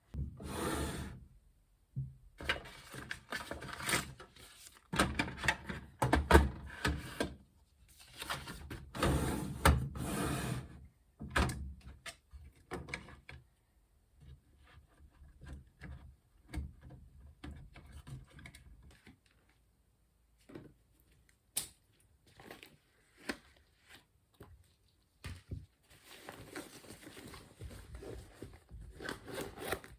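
Things being handled and put down at a desk: irregular rustling and shuffling with light knocks and clicks, busiest in the first half, sparser and quieter in the middle, picking up again near the end.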